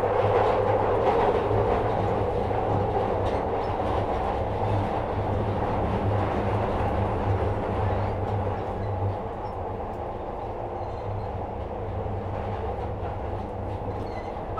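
Interior running noise of a Metro-Cammell 2nd generation Glasgow Subway car on the move: a steady low hum under wheel-on-rail rumble with faint clicks. It quietens a little about nine seconds in.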